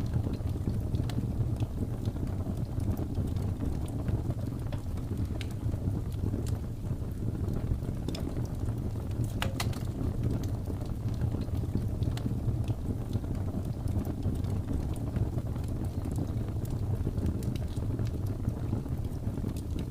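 Wood fire crackling with scattered sharp pops, one louder about halfway through, over a steady low rumble of blizzard wind.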